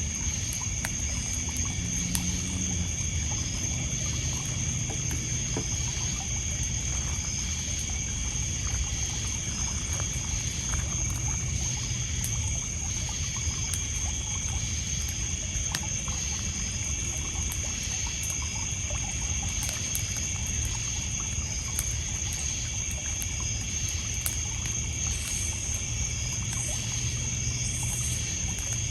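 Small waves lapping and splashing on a pebble beach, under a steady high insect trill from crickets, with scattered small crackles from a wood campfire.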